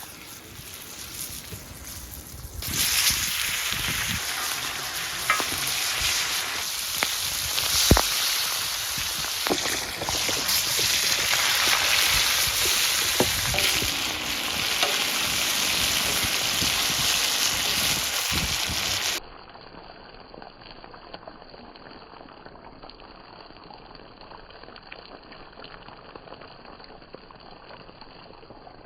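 Food sizzling in a frying pan, a steady hiss with scattered pops. About two-thirds of the way through it cuts off suddenly to a quieter, duller background.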